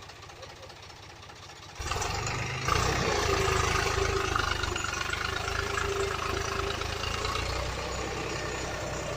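Truck engine running. About two seconds in, the sound jumps much louder to a heavy engine rumble with a steady whine, and it steps up again shortly after.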